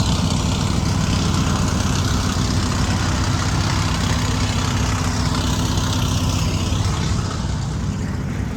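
A vehicle engine running steadily at a low pitch. A fainter, higher whine rises and falls about five seconds in.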